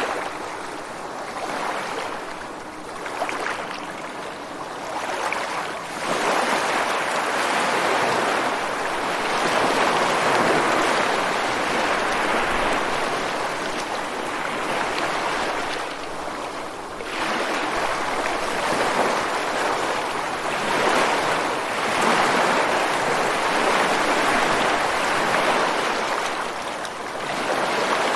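Ocean surf washing ashore and breaking against rocks, a continuous rush of water that swells and eases as successive waves come in, with a brief lull about two thirds of the way through.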